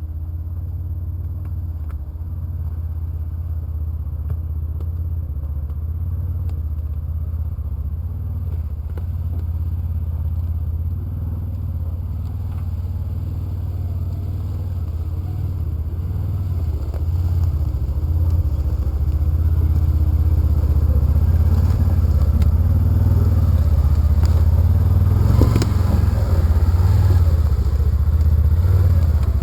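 Polaris Ranger Northstar side-by-side's engine running with a steady low rumble, growing louder a bit past halfway, with some clattering near the end.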